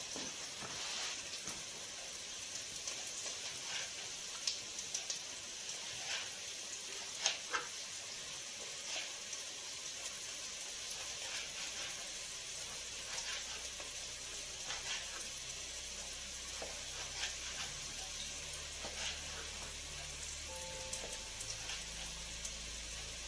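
Sausage and onions frying, a steady sizzle with scattered pops and crackles. Soft background music comes in about halfway through.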